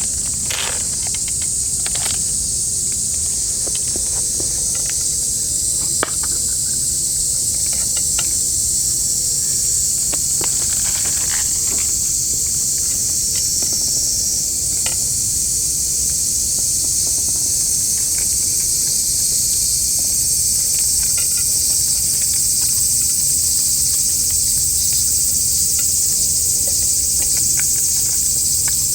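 Outdoor insect chorus: a steady, high-pitched chirring that runs without a break, with scattered short clicks and taps over it, the sharpest about six seconds in.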